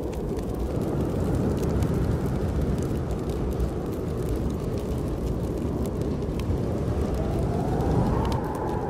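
Snowstorm wind blowing with a steady low rumble, a faint howling whistle rising near the end, over a wood fire crackling with scattered small pops.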